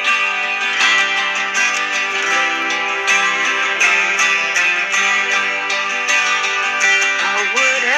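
Music: a guitar strumming steadily through an instrumental passage, with a singing voice coming in near the end.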